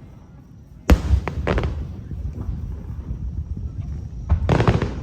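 Fireworks shells bursting overhead: a sudden sharp boom with a deep rumble about a second in, followed by brief crackling, then another burst near the end.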